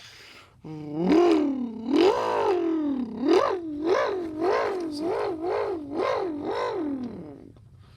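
A boy imitating a Corvette's engine with his voice. After two long revs, each rising and falling, he makes a run of about eight quick rev blips, then lets the sound trail off near the end.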